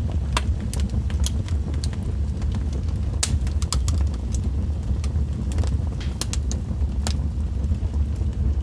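Wood fire crackling: a steady low rumble with irregular sharp pops and snaps, about a dozen scattered through.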